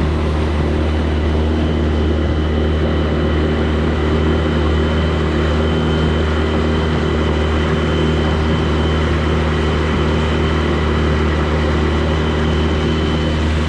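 Small outboard motor on a gheenoe running at a steady speed: a loud, even drone with no change in pitch, and a thin high whine above it from about a second in until near the end.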